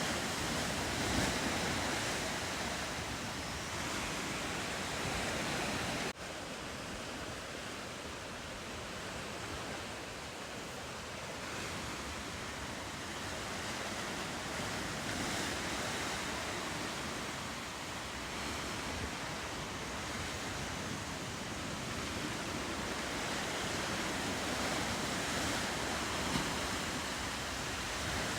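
Ocean surf washing steadily, with wind. The sound drops off abruptly and a little quieter about six seconds in.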